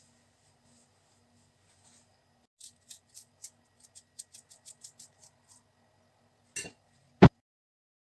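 A quick run of about a dozen light clicks over about three seconds. A soft knock follows, then one loud sharp click, after which the sound cuts off.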